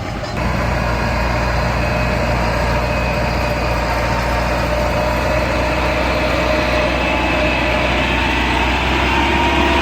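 Tractor diesel engine running steadily and loud, stepping up in level about half a second in.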